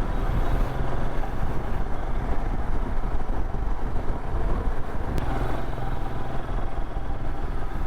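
Royal Enfield Himalayan's single-cylinder engine running steadily while riding, under a constant rush of wind and road noise, with a faint click about five seconds in.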